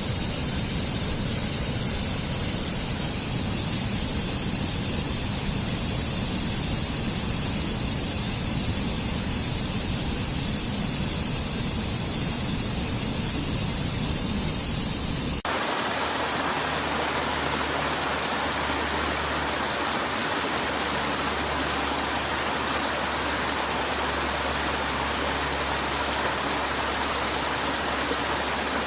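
Steady rush of falling water from a waterfall. About halfway through it switches abruptly to another stretch of rushing water, hissier and with less deep rumble.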